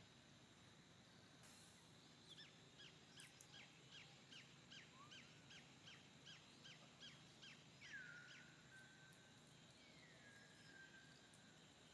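A bird singing faintly: a quick run of repeated downward-sweeping whistled notes, about three to four a second, lasting some five seconds, followed by a couple of longer down-slurred notes.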